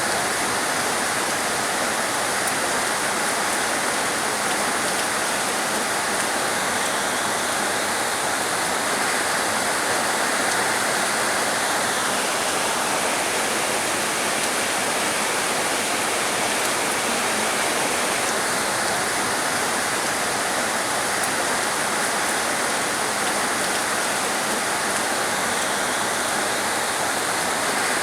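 Heavy rain falling, a steady dense hiss that stays even throughout.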